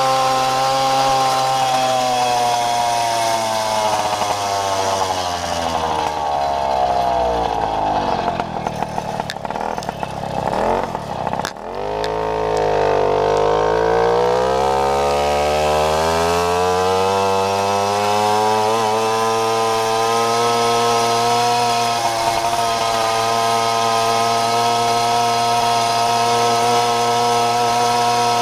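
Babetta moped's single-cylinder two-stroke engine running at steady high revs. Its pitch falls over several seconds to a low point about eleven seconds in, breaks briefly, then climbs back up and holds steady again.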